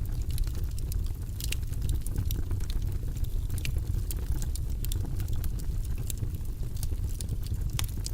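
Wood fire burning in a fireplace: a steady low rumble of flames with irregular sharp crackles and pops, a few louder snaps about one and a half seconds in and near the end.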